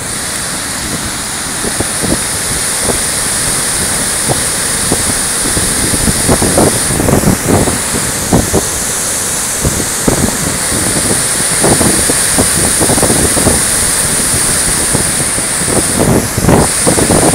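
Floodwater rushing in a loud, steady hiss, with irregular low buffeting on the phone's microphone.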